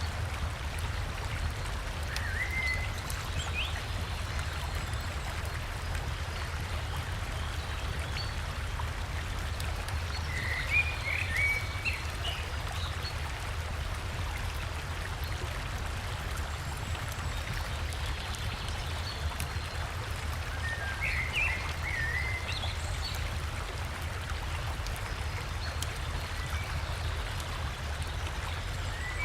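River water rushing steadily, with a deep low rumble under the splashing. A bird sings short chirping phrases four times, spread out at intervals of about ten seconds.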